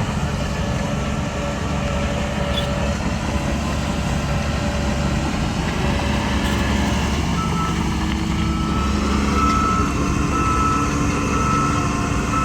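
Heavy diesel earthmoving machinery running steadily under load. From about two-thirds of the way through, a reversing alarm beeps about once a second.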